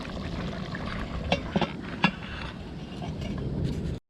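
A few sharp metal clinks of cookware, three of them between about one and two seconds in, over a steady low rumble of outdoor background noise.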